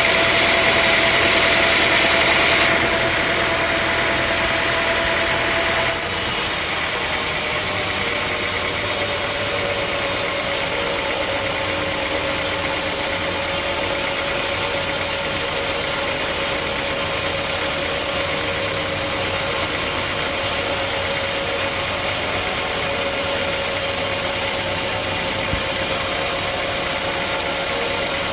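Sawmill machinery running steadily with a constant whine. It is louder and noisier for the first three seconds. The sound changes abruptly about six seconds in, after which the whine sits a little lower in pitch.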